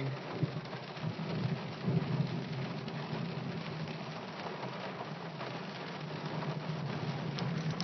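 Heavy rain pelting the car's roof and glass, heard from inside the car, with a low rumble of thunder underneath.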